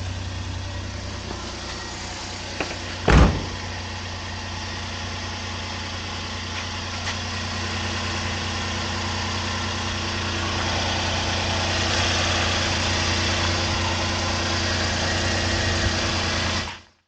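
Suzuki Carry DA63T's 660 cc three-cylinder engine idling steadily on freshly changed oil, with one sharp knock about three seconds in. The sound cuts off suddenly near the end.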